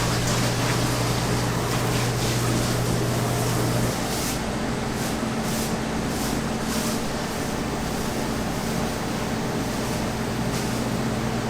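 Steady machine hum with a low droning tone that changes to a higher one about four seconds in.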